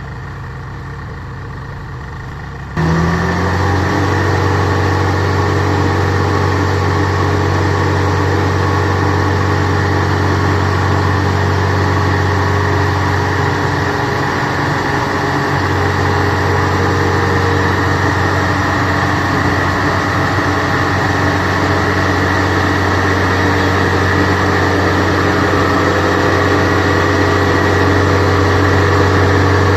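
Kubota DC70 Plus combine harvester's diesel engine running low and steady, then jumping to a much louder, higher-revving run about three seconds in. It holds steady at that level after the jump.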